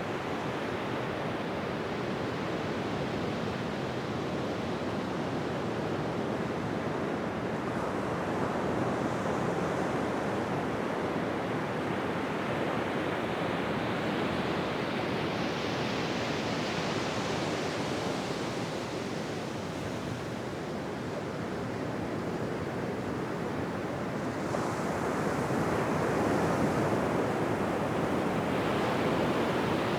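Ocean surf washing onto a beach: a continuous hiss of moving water that swells as a wave breaks about halfway through and again in the last few seconds.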